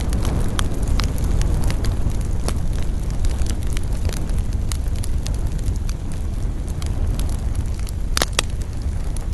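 Wood fire crackling in a fireplace: scattered sharp pops and snaps over a steady low rumble of burning, with two louder pops close together near the end.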